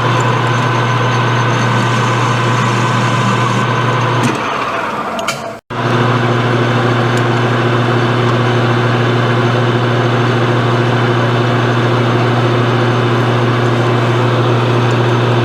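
Metal lathe running under power: a steady motor and gear hum with a fixed whine above it. It starts abruptly, changes a little about four seconds in, and breaks off for an instant before running on steadily.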